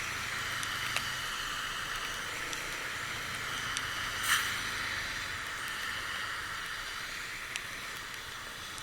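Steady hiss of wind and road noise on a moving motorcycle, with a faint low rumble, a few light clicks and a brief louder gust about four seconds in.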